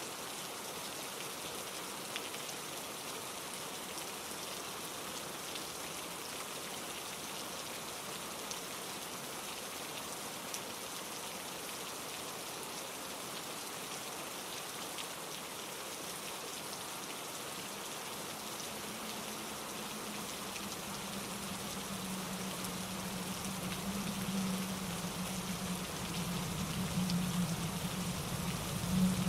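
Steady rain falling on leaves and rocks, an even hiss with scattered drops ticking. About two-thirds of the way through, a low rushing sound rises beneath it and grows louder toward the end.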